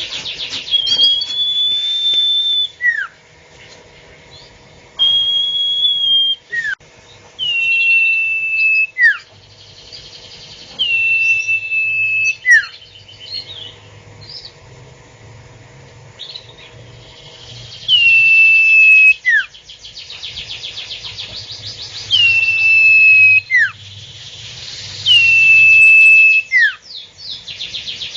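A bird calling over and over, a call every two to three seconds: a short downward-sweeping note, then a long high whistle that sags slightly in pitch. Harsh rasping bursts come between some of the calls.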